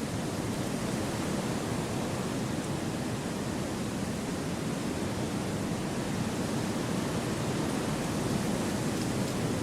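Wind blowing steadily through forest trees: an even rushing noise that holds one level without gusts.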